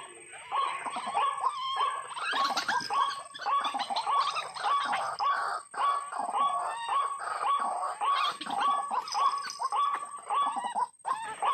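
White-breasted waterhen calling: a fast, continuous run of harsh, repeated calls, several overlapping at once, with a brief break near the end.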